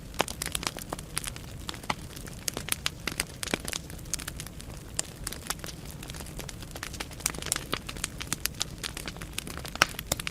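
Wood fire burning in a fireplace: a constant stream of irregular sharp crackles and pops over a low steady rumble of the flames.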